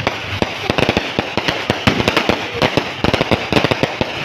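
Fireworks and firecrackers going off in dense, irregular succession: a rapid crackle of sharp bangs, several a second.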